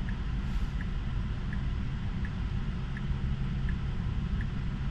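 Low, steady rumble inside a Tesla's cabin, with a soft turn-signal tick repeating evenly about every three-quarters of a second as the car sets up to park.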